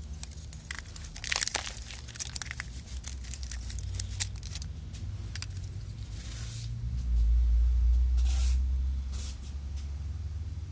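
Rustling and clicking of a car's engine wiring harness being handled: plastic loom and connectors rattling in a cluster of sharp clicks early on, then scattered. A louder low rumble lasts about two seconds near the end.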